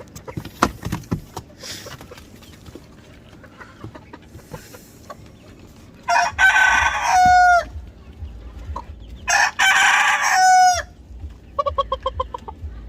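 Rooster crowing twice, each crow about a second and a half long and ending in a falling note, followed near the end by a quick run of short clucks.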